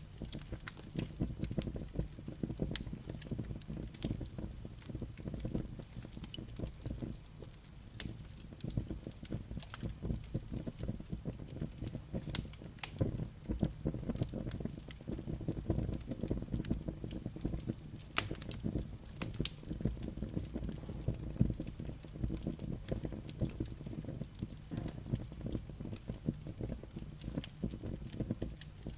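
Wood fire burning in a fireplace, with a steady low rumble of flames and frequent sharp crackles and pops from the burning logs and embers.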